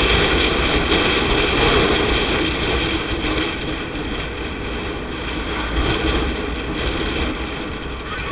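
Motorcycle ride: a steady mix of wind rush, engine and road noise, easing slightly about three seconds in.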